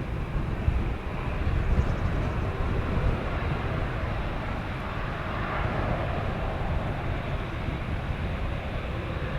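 Jet airliner engine noise with wind rumbling on the microphone, steady and uneven throughout.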